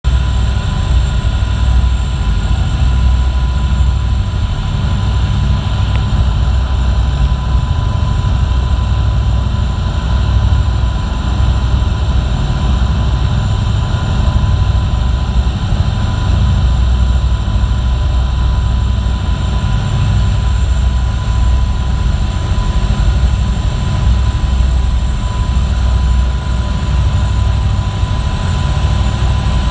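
Boat engine running steadily under way: a loud, constant low rumble with a thin steady whine above it.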